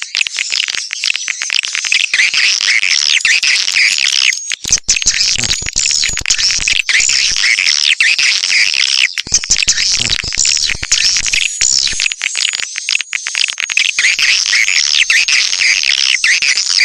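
Swiftlet call recording of the kind played to lure wild swiftlets to a nesting house: a dense chorus of many swiftlets twittering in overlapping high-pitched chirps, with frequent sharp clicks.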